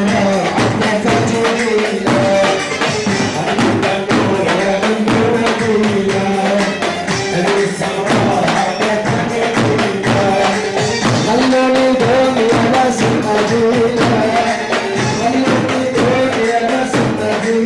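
Live Arabic party music played loud and steady: dense, fast percussion with tambourine under a held instrumental melody, with no singing.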